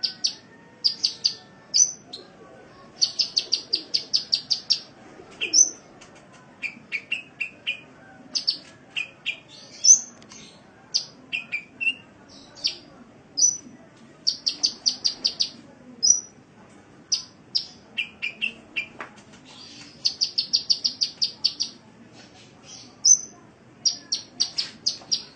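Sunbird (the 'kolibri' of Indonesian bird keepers) singing: high, sharp chirping notes mixed with rapid trills of quickly repeated notes, about eight a second.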